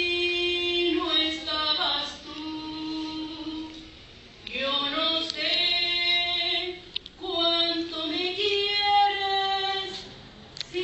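A woman singing unaccompanied, holding long notes in slow phrases, with a short break about four seconds in.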